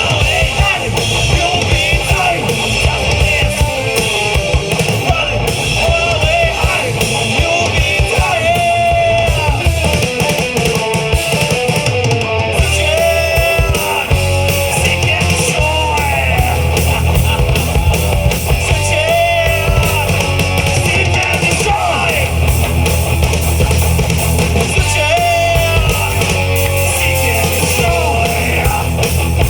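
Live rock band playing loudly: drum kit, bass and distorted electric guitars, with a melody line that bends in pitch over the top.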